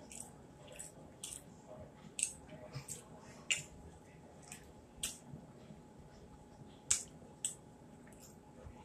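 A person chewing fried fish close to the microphone, with short, irregular mouth clicks and smacks, the loudest about seven seconds in.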